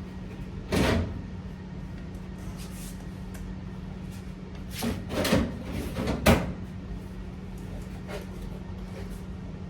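A few household knocks, like a cupboard or door being handled: one about a second in, then a cluster of three around five to six seconds in, over a steady low hum.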